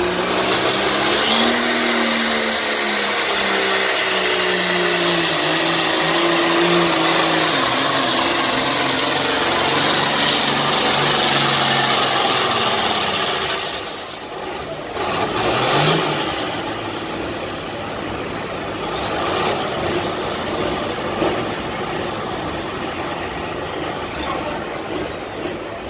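John Deere 4430 pulling tractor's diesel engine running flat out under load as it drags the pulling sled, its pitch climbing, for about thirteen seconds. Then the engine backs off, leaving a high whine that slowly falls.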